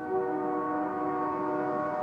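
Distant train horn sounding a chord of several tones together, echoing. It starts sharply at the beginning and is held steady.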